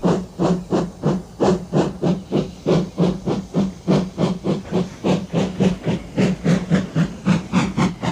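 Steam locomotive chuffing steadily as it pulls away, about four puffs of exhaust steam a second.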